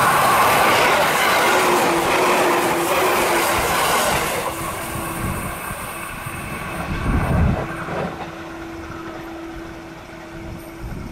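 A train running past, loud for the first four seconds or so and then fading away, leaving a steady hum. A low rumble swells briefly about seven seconds in.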